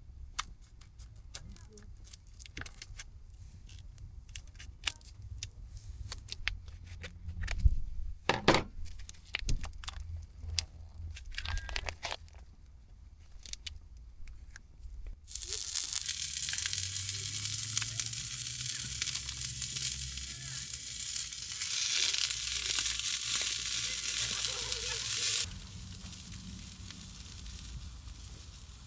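Clicks and knocks of utensils and cookware being handled. About halfway through, a loud, even sizzle of food frying in a hot pan starts suddenly, then drops sharply to a quieter sizzle near the end.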